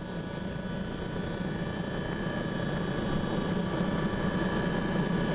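Helicopter engine and rotor running steadily, growing slowly louder.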